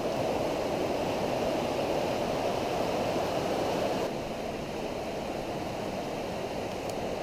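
Steady rush of a flooded river running high and fast, with no breaks; it eases slightly about four seconds in.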